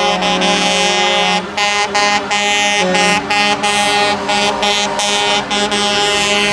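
Truck air horns sounding in long, loud blasts, the pitch changing every second or so with short breaks between blasts.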